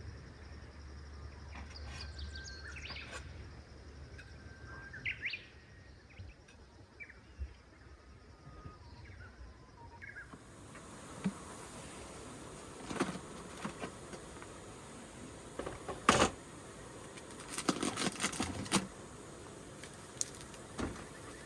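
Short bird-like chirps in the first half, then a steady hiss with a few sharp knocks and clicks.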